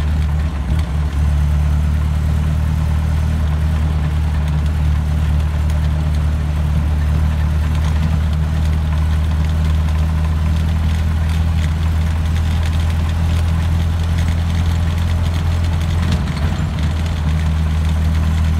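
1922 Essex Coach's four-cylinder engine running steadily as the car cruises at about 25 mph, a low, even drone heard from the driver's seat.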